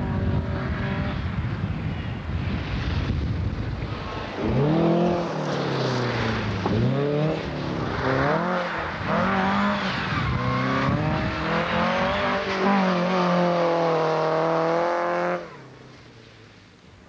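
Rally car engine revving hard as it passes close. Its pitch rises and falls again and again as the car accelerates, lifts off and changes gear. The sound cuts off suddenly near the end.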